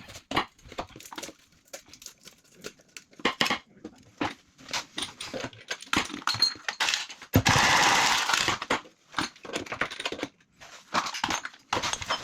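Knocks and clinks of tools and pipe fittings being handled, with a short burst of a cordless power tool, such as a drill, about seven and a half seconds in.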